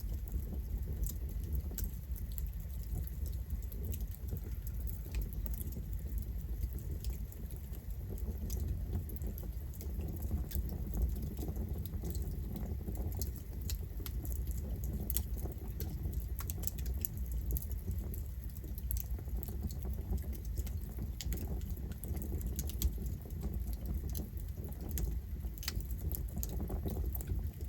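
Campfire burning, a low steady rumble of flames with frequent irregular crackles and pops of wood.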